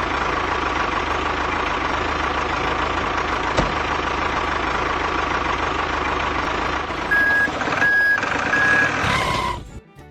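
Truck engine running steadily. About seven seconds in, three short reversing beeps sound, then the engine sound cuts off near the end and gives way to music.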